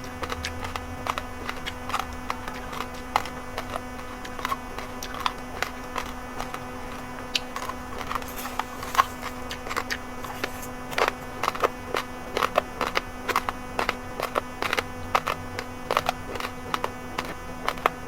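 Raw red and white rice grains being chewed, crunching between the teeth in quick, irregular sharp cracks, over a steady low hum.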